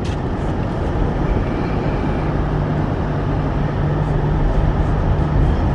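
All-wheel-drive car driving on snowy roads, heard from inside the cabin: a steady drone of engine and road noise, with a low hum that comes in about a second in and holds for a few seconds.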